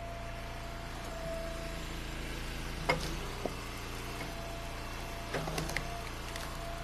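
An engine idling steadily. A single sharp knock comes about three seconds in, and a few wooden clatters come near the end, as of firewood pieces being tossed.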